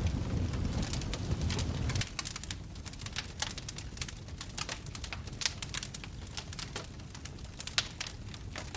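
Wood fire crackling in a fireplace: many quick sharp pops and snaps over a low rumble of flames, which drops away about two seconds in.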